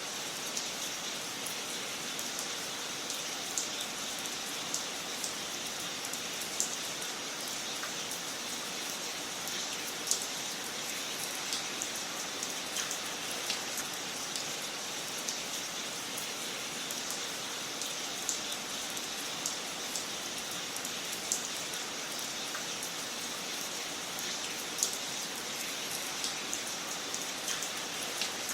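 Wood fire crackling in a fireplace: a steady soft hiss with small, irregular pops and snaps, a few each second.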